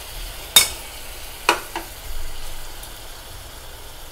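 Onion-tomato masala sizzling steadily in a pot as ground green masala paste is added, with three sharp clinks, the loudest about half a second in, as the paste is knocked out of the mixer jar into the pot.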